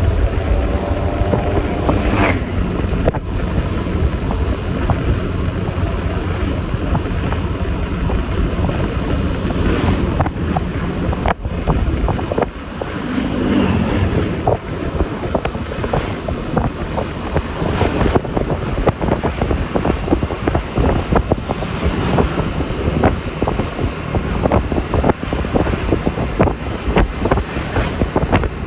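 Road noise from a Yamaha Lexi LX 155 S scooter riding along, with wind buffeting the microphone over the engine and tyre noise.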